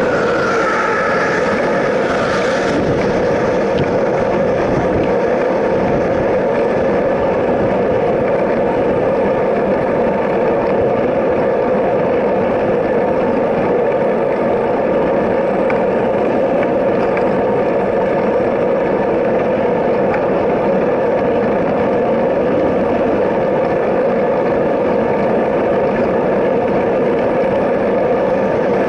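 Steady, loud rolling rumble of a long freight train of covered hopper cars running alongside, mixed with wind noise on a bicycle-mounted camera. A brief higher hiss comes in the first couple of seconds.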